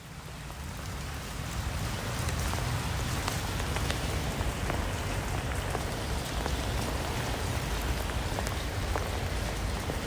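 Steady rainfall, a continuous hiss with many individual drops ticking, fading in over the first couple of seconds.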